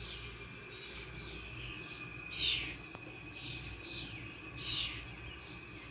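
Wild birds calling outdoors: a series of short, downward-sliding chirps, two louder ones about two and a half and nearly five seconds in, over a steady high-pitched tone.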